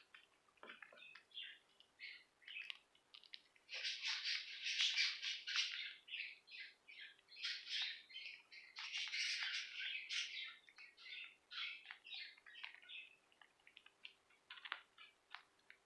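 Budgerigars chattering: a run of quick chirps and squawky warbles, with two denser, louder spells of chatter near the first and second thirds, and a few sharp clicks in between.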